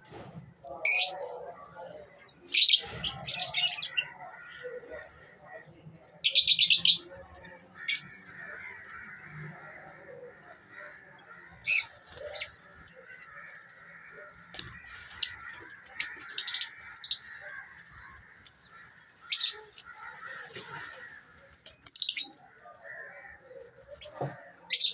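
A colony of lovebirds calling: short, sharp, high-pitched calls every second or few, over a steady background chatter of many birds.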